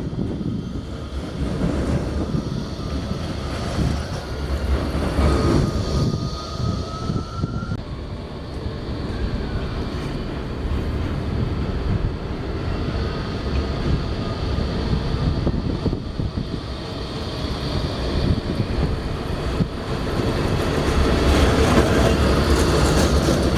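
A rail vehicle running on its track, a steady rumble with a faint, slightly rising whine from about five seconds in, growing louder near the end.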